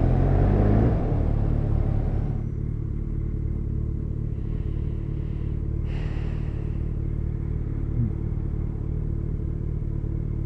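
Yamaha FZ1 inline-four motorcycle engine running, heard through a helmet camera. It is louder, with more rushing noise, for the first two seconds, then drops to a quieter, steady running note.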